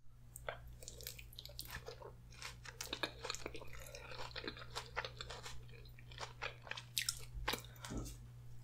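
Close-miked eating sounds: a person chewing and biting spaghetti with meat sauce, a dense run of wet mouth clicks and crunches, over a steady low hum.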